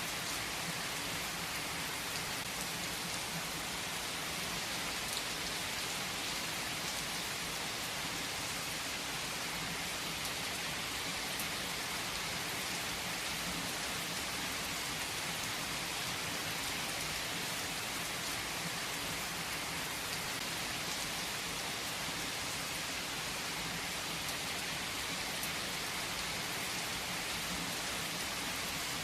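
Steady rainfall pattering on a surface, an even hiss with scattered drop ticks.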